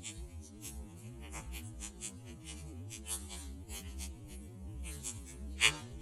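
Campfire wood crackling, with irregular sharp pops and one louder pop near the end, over a low rumble.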